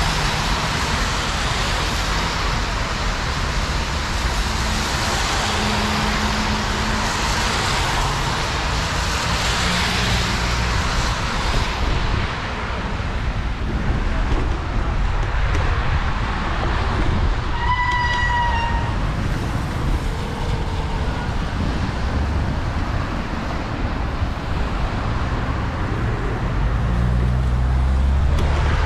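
Bicycle ride on wet paths in rain: a steady hiss of tyres and rain over a low rumble, brighter for the first twelve seconds or so. About two-thirds of the way through, a short horn-like tone sounds once, falling slightly in pitch.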